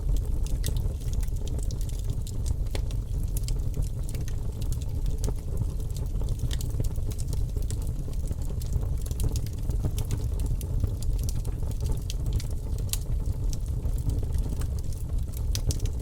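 Campfire wood crackling: irregular sharp pops and snaps scattered over a steady low rumble.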